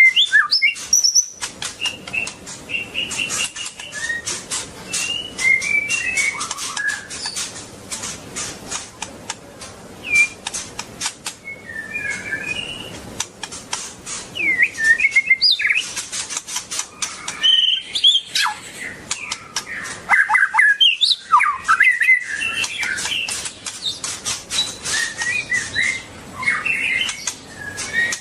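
White-rumped shama (murai batu) singing: phrases of whistled glides and warbles, over a dense run of quick clicks.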